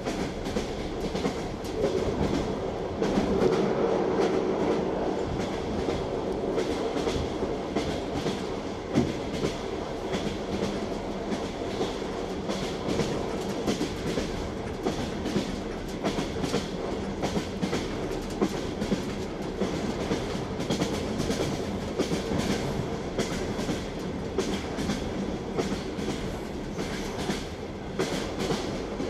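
Train wheels clattering over rail joints, with frequent short clacks over a steady running rumble of the railway car.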